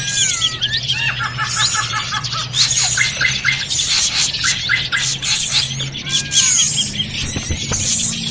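Bird-lure recording of drongos (srigunting) calling noisily: many birds at once, with whistled slurs, rapid runs of chipping notes and high squeaky calls overlapping without a break.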